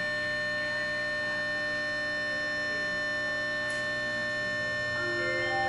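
Steady electrical hum with several steady high tones inside a stationary Tokyo Metro 03 series train car, its onboard equipment running while it waits to depart. Near the end a melody of stepped chime tones begins.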